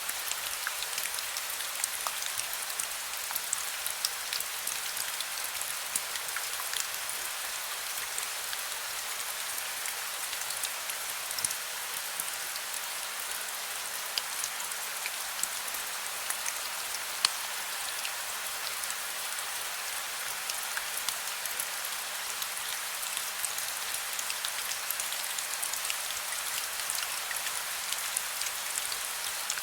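Heavy rain falling steadily, a dense hiss with many sharp individual drops pattering on a hard surface.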